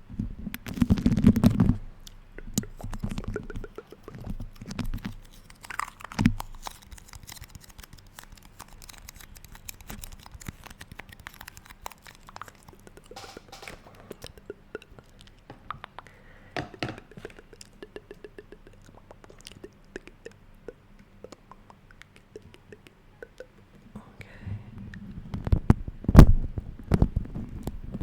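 Beeswax food wrap, warmed and sticky from the hands, being handled close to the microphone: fine sticky crackling and peeling. The handling is louder and busier at the start and again from about four seconds before the end, with quieter, sparse crackling in between.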